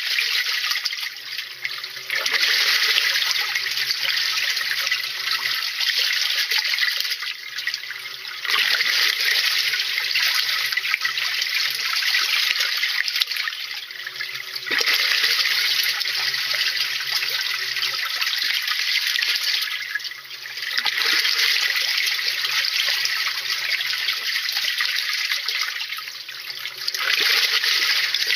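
Washing machine tub churning water, with loud splashing and sloshing that eases off briefly about every six seconds, and a low motor hum underneath that comes and goes with each stroke.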